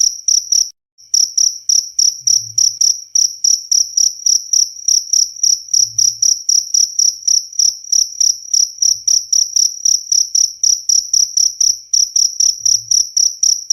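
Cricket chirping in an even, fast rhythm of about four high-pitched chirps a second, with a brief drop-out just under a second in.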